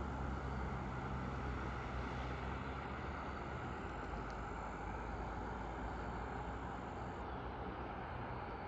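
Freight train rumbling as it moves away, a steady low hum and rolling noise that slowly fades.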